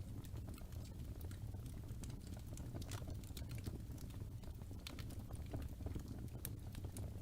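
Wood fire burning with a steady low rumble and irregular sharp crackles and pops from the burning logs.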